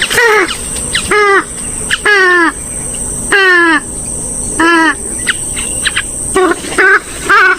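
Rail-family waterbirds of the swamphen and moorhen kind giving a series of short calls, each falling in pitch at the end, roughly one a second. A steady high whine runs underneath.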